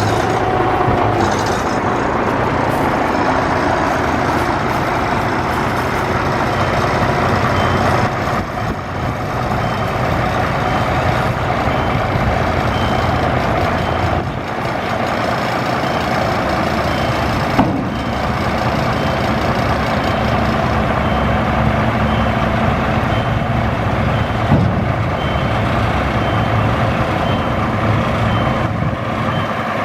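Diesel engine of a 1998 Ford Louisville tandem-axle dump truck running, with a reversing beeper sounding at about one beep a second from about seven seconds in, as the truck backs up.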